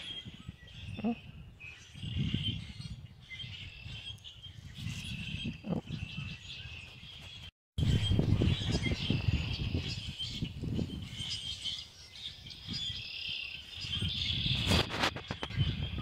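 Small birds chirping steadily in the background, with irregular low rustling and bumping close by as a chipmunk eats sunflower seeds from a fleece-covered lap. A run of sharp clicks comes near the end. The sound cuts out for a moment about halfway.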